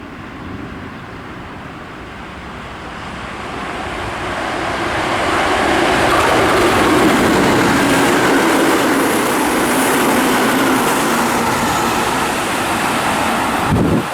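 Keihan 1000 series electric train running through at speed: the rolling noise builds over several seconds to a loud, steady passing rumble with a faint hum from the train in it.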